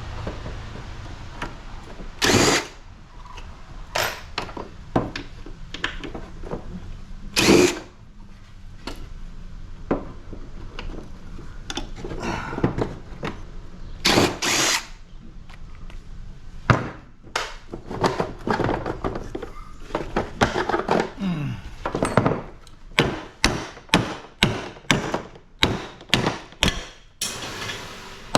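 Knocks and clanks of metal and plastic parts as a scrap air-conditioner unit is taken apart with hand tools, a few loud strikes spread out, then a quick run of about two to three knocks a second near the end.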